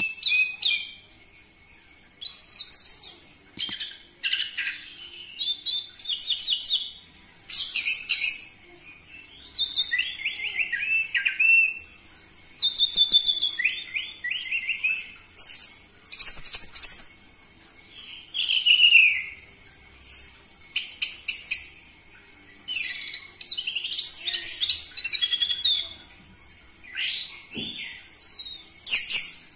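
Orange-headed thrush singing a loud, varied song in phrases of one to two seconds, made of fast whistled sweeps and trills, with brief pauses between the phrases.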